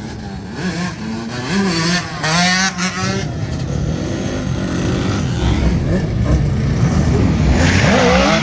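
Vehicle engine revving, its pitch rising and falling again and again, getting louder in the second half.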